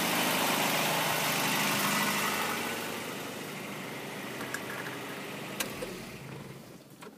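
Toyota 22RE four-cylinder engine running with a rod knock from worn rod bearings. The sound drops away about two and a half seconds in and fades further near the end, with a couple of small clicks.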